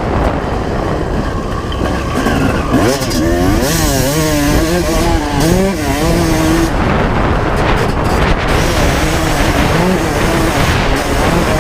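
Two-stroke single-cylinder engine of a 1995 Honda CR250 motocross bike being ridden, its pitch swinging up and down quickly as the throttle is worked for a few seconds in the middle, under a loud rushing noise.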